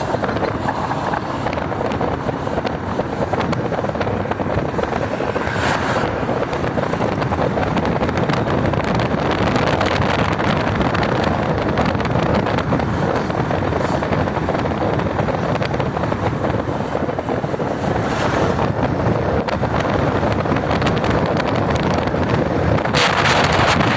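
Wind rushing over the microphone on a moving motorcycle, with steady engine and road noise underneath.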